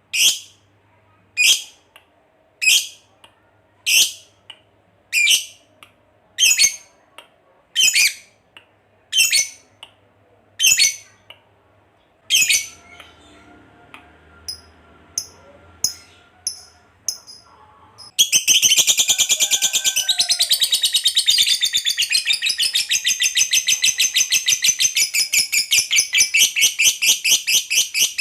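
Lovebird calling: sharp, high single shrieks a little over a second apart, then a quieter stretch of soft ticks. About two-thirds of the way in it breaks into a long, unbroken, rapid chattering trill, the 'ngekek panjang' prized in lovebird keeping.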